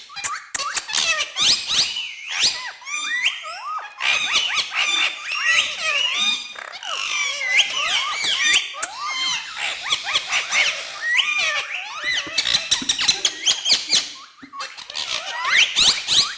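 Pet parrots chattering and squawking: a dense run of shrill chirps, whistles and quick pitch swoops with no clear words, easing briefly near the end.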